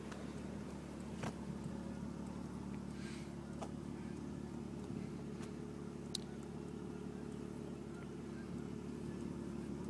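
BMW 330i's inline-six engine idling steadily through a Dinan aftermarket exhaust, with a few faint clicks.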